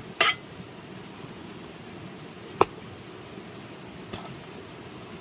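A few sharp knocks of hard objects striking each other over a steady background hiss: a short burst just after the start, one sharp, loud click about halfway through, and a faint tick near the end.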